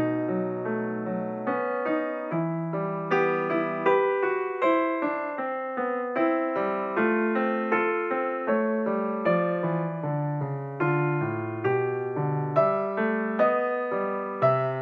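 Background piano music: a steady flow of gentle, plucked-sounding notes, several a second.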